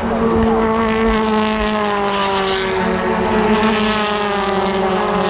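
British Touring Car Championship race cars running at speed past the trackside, their engine notes slowly falling in pitch.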